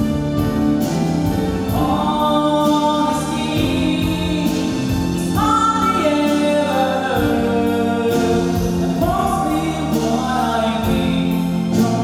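A song performance: a singing voice carrying long, gliding melodic notes over a steady instrumental accompaniment.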